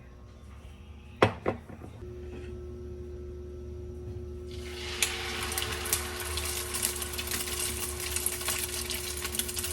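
Two sharp clicks, then water starts running from a tap into a sink about four and a half seconds in and keeps running with a steady spatter. A steady low hum runs underneath.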